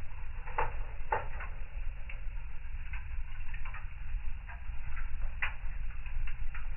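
Fire burning in a fireplace, crackling with irregular sharp pops over a steady low rumble; the biggest pops come about half a second and a second in, and again near five and a half seconds.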